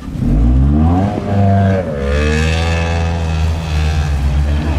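All-wheel-drive Mitsubishi Lancer's engine revving hard under load on an off-road climb: the revs rise sharply about a quarter second in, dip briefly twice, then are held high.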